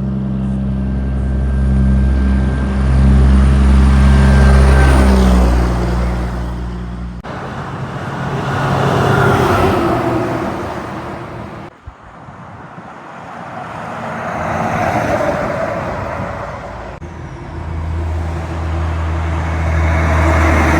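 Heavy trucks driving past one after another, each engine's low steady drone and tyre noise swelling and fading as it goes by. The sound changes abruptly three times, between separate passes.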